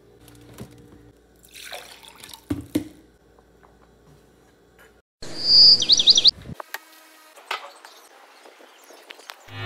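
Cut-together clips of light handling clicks and faint water sounds. About five seconds in, a louder burst of hiss carries a quick run of high bird chirps.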